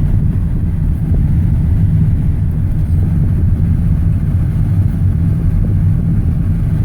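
Steady low rumble of a moving car, road and engine noise with no sudden events.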